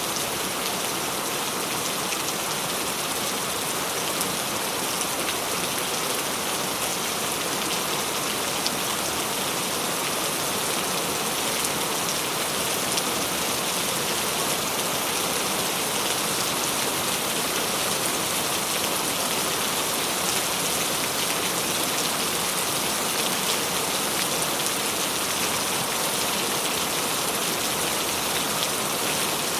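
Steady rain falling, an even hiss with many small drop taps throughout.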